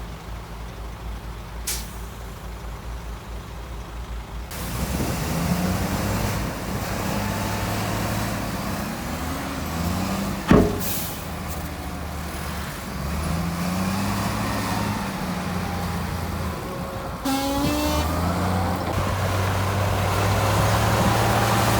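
Heavy diesel engines of earthmoving machines running and revving, their pitch rising and falling, with a single sharp, loud crack about halfway through.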